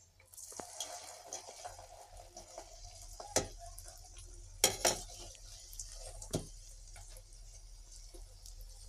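Flour vada dough frying in hot coconut oil in a metal wok, a steady sizzle that starts just after the dough goes in. A few sharp clinks of the metal slotted spoon against the wok come around the middle.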